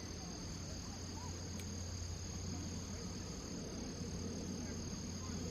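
A steady, unbroken high-pitched insect trill, with a low steady hum beneath it and a few faint short calls.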